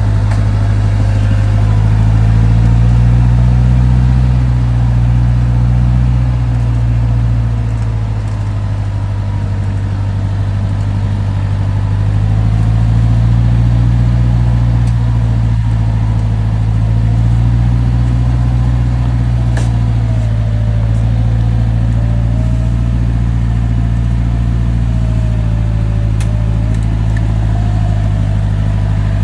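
Off-road 4x4 vehicle's engine running with a deep, steady rumble that swells and eases slowly as the revs change, with a faint wavering higher tone above it.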